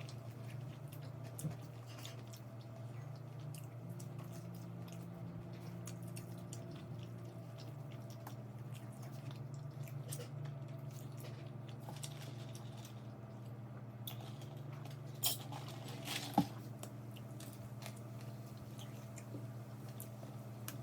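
A person chewing and biting fried chicken close to the microphone, with small wet mouth clicks over a steady low hum; two sharper clicks come about three-quarters of the way through.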